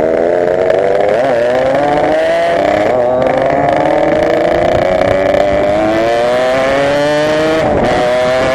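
Yamaha RX-King 135cc two-stroke single-cylinder engine, fitted with an Altech C20RR exhaust, accelerating hard. Its pitch climbs steadily and dips briefly a few times as it shifts up through the gears.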